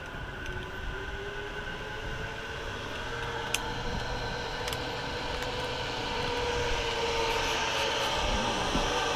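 Zipline trolley pulleys running along the steel cable: a steady rolling whine with a rising hiss that grows louder as the rider comes in.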